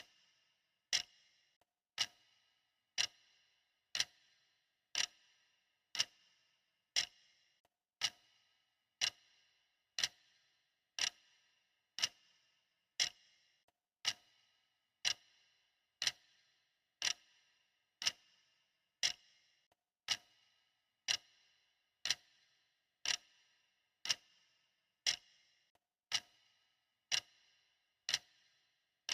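Clock ticking steadily, one crisp tick about every second, each dying away quickly.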